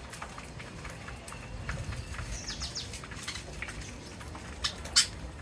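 Parrots chirping and calling, mixed with many short sharp clicks, including one loud click about five seconds in.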